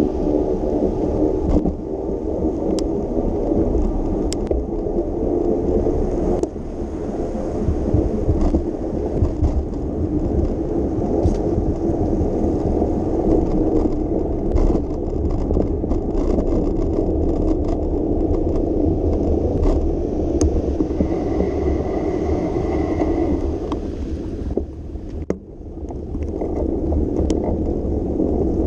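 Bicycle rolling over wet city pavement: a steady hiss and rumble of tyres on the road, with scattered small clicks and rattles. A brief steady high whine comes about two-thirds through, and the noise drops away for a moment near the end.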